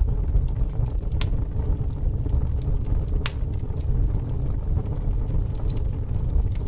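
Fire burning with a steady low rumble and scattered crackles, with two sharper pops about a second in and about three seconds in.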